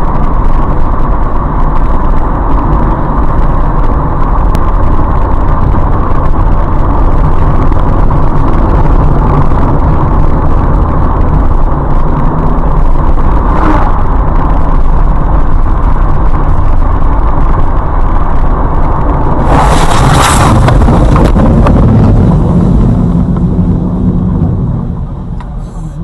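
Loud steady vehicle noise, heavy at the low end, with a short harsh burst about twenty seconds in. It fades down near the end.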